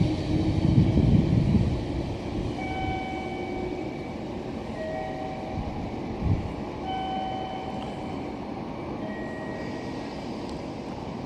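Meitetsu electric commuter train moving through the station, its low rumble loudest for about the first two seconds and then easing to a steadier running noise. Short steady tones at a few different pitches come and go over it, and there is one brief thump about six seconds in.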